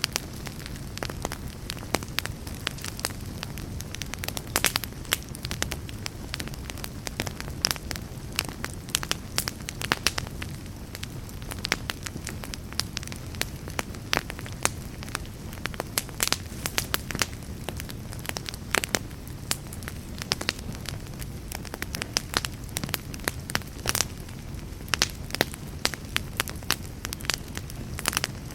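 Wood fire of burning logs crackling, with frequent irregular pops and snaps over a steady low rumble of the flames.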